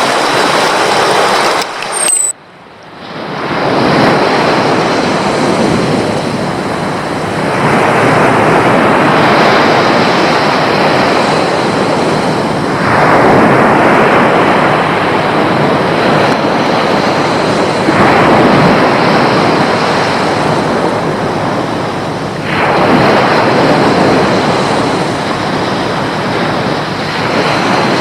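Waves breaking on a shore, the surf swelling and washing back about every five seconds. The sound drops out briefly about two seconds in and then builds again.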